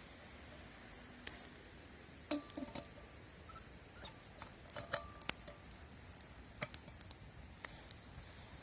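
Irregular light clicks and taps over a faint steady hiss, a cluster of them about two and a half seconds in and again around five seconds, a few with a brief ringing tone.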